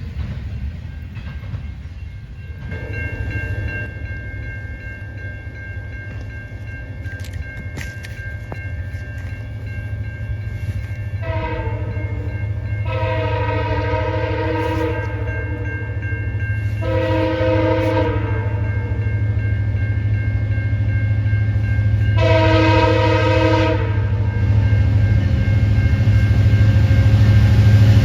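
Freight train approaching, its low rumble growing louder, while the locomotive's air horn sounds four blasts, the second the longest.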